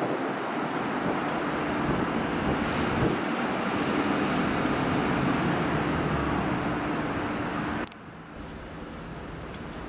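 Long Island Rail Road electric commuter train, Bombardier M7 cars towing Kawasaki M9 cars, running away down the track with a steady rumble and a low hum. The sound cuts off abruptly about eight seconds in, leaving quieter wind noise on the microphone.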